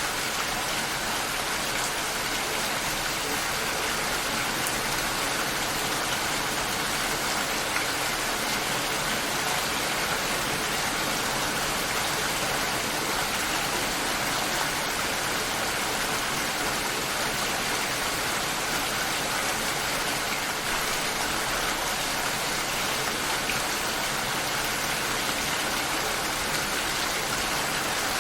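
Steady rain shower falling, a constant even hiss of rain with no single drops or gusts standing out.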